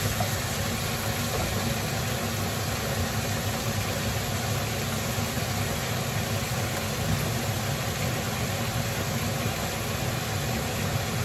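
Chicken pieces sizzling steadily in hot oil in a pot on a gas burner, being sautéed, over a steady low hum.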